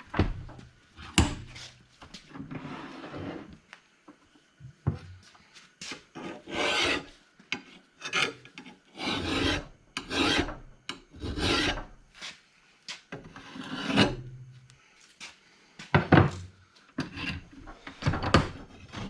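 Hand file rasping along the cutting edge of a steel rotary lawnmower blade in repeated strokes, knocking down high spots while sharpening it. A few sharp knocks fall between the strokes.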